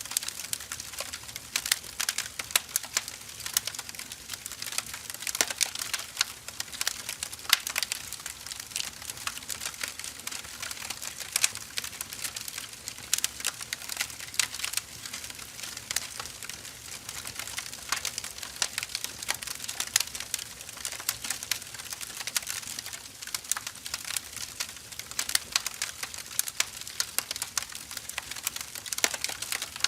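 Wood fire crackling steadily, with dense irregular pops and snaps over a soft hiss of burning logs.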